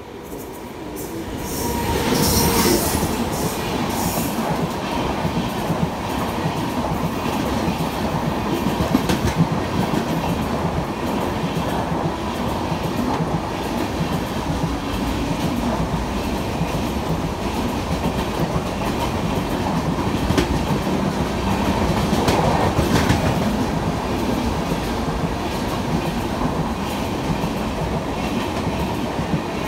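An express passenger train, hauled by a WAP-7 electric locomotive, passes at high speed. The rush of sound builds over the first two seconds, then settles into a steady loud rumble and rail clatter from the coaches rolling by.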